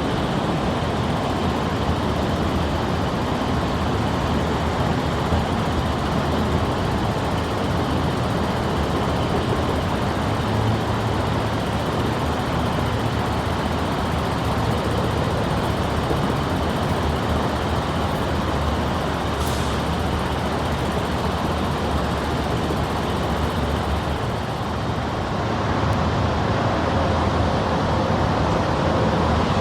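Continuous loud rumble of passing vehicles, steady throughout and getting slightly louder near the end, with a brief high-pitched sound about twenty seconds in.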